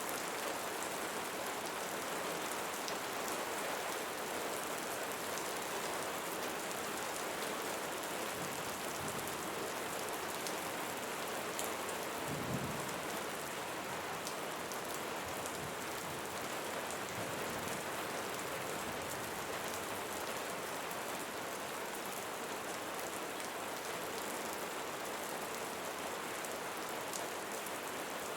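Steady rain falling on a hard surface, a dense hiss with individual drops ticking through it. There is one brief low thump about halfway through.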